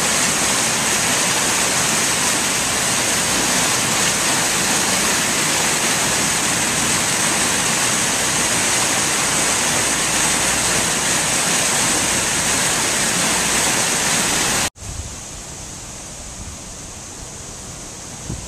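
Loud, steady rush of storm water. About fifteen seconds in it cuts off abruptly to a much quieter hiss with a low, gusty rumble of wind on the microphone.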